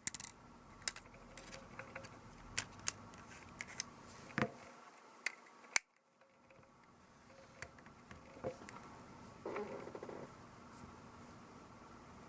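Scattered sharp clicks and small taps of tools and tiny parts being handled while a Canon PowerShot S110 compact camera is taken apart for a lens-error repair, with a short rustle about ten seconds in.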